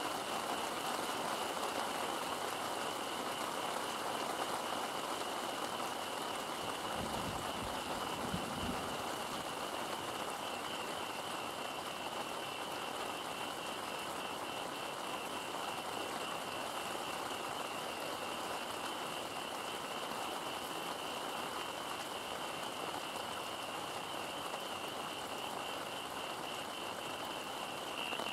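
Heavy rain falling steadily, with a high pulsing trill running through it and a brief low rumble about seven seconds in.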